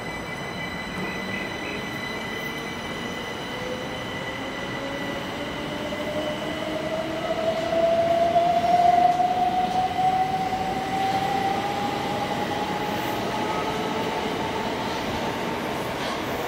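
Southern green-and-white multiple-unit train pulling out of the station: its traction whine rises steadily in pitch as it gathers speed, over the rumble of the train running. It is loudest about eight to nine seconds in.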